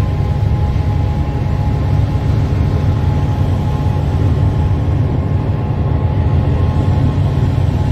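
Steady low rumble of a vehicle driving alongside a diesel freight locomotive: road and wind noise mixed with the locomotive's engine, with a faint steady high whine over it.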